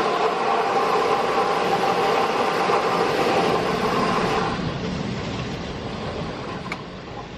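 Automatic car wash machinery working on the car, heard from inside the cabin: a loud, dense rush of water spray and equipment with a steady mechanical whine. It dies down after about four and a half seconds.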